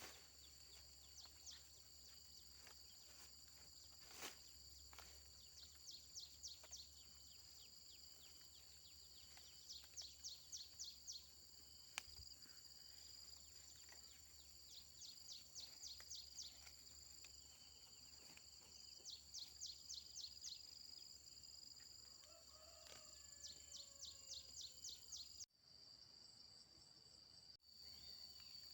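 Faint insect chorus: a steady high-pitched trill with repeated bursts of rapid chirps, about ten a second, and a few sharp clicks. A short bird call comes near the end, just before the sound cuts out briefly.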